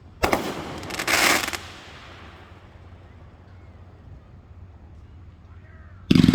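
Fireworks going off: a sharp bang about a quarter second in, then a quick, dense run of rapid reports around a second in, a lull, and another loud bang near the end.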